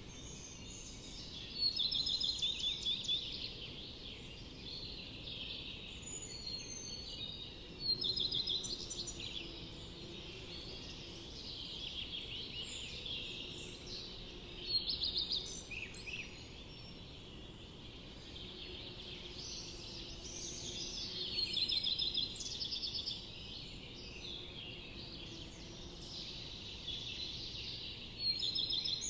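Forest songbirds singing, with quick trilled, chirping phrases; a loud phrase comes about every six to seven seconds over softer calls and a steady low background noise.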